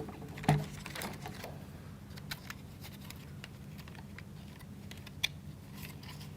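Faint scattered clicks and taps of small plywood model parts being handled, the strongest about half a second in and a sharp one near the end, over a steady low hum.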